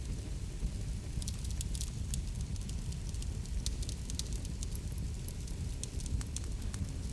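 Wood fire in a fireplace crackling: many sharp pops and snaps over a steady low rumble of the burning.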